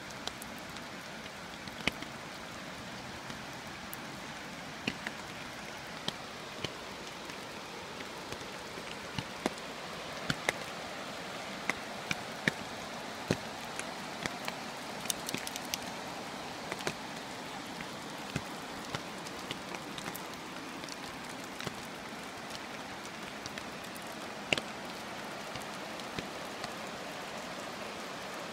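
Steady rain falling, with scattered sharp taps of individual drops landing close by at irregular moments.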